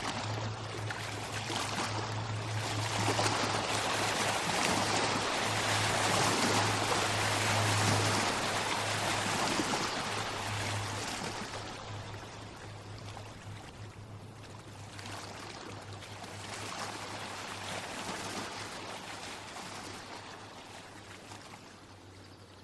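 Running water like a stream, a rushing hiss that swells to its loudest about seven seconds in and then gradually fades, over a steady low hum.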